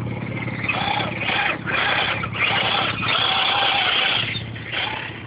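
Brushless outrunner motor of an RC crawler whining with a hiss in about four throttle bursts. The longest burst, near the middle, lasts nearly two seconds.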